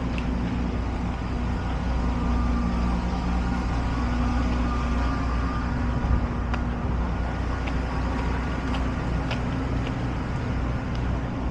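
Steady low rumble of motor traffic, with a steady engine hum running throughout and a few light clicks in the second half.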